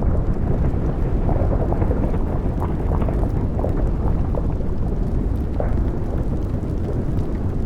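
Erupting volcano: a steady low rumble with scattered crackles and pops.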